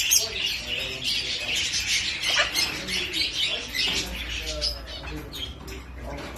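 A flock of caged lovebirds and parrots chattering, with many overlapping high chirps and squeaks and some wing flapping.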